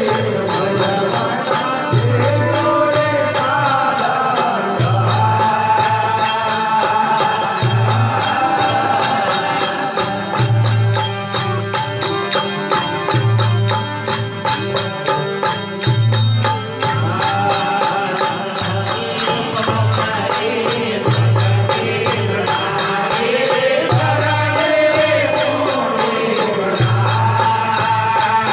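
Rajasthani desi bhajan music: a gliding melody over a steady drone, with a regular low drum beat and fast bright ticks of small percussion.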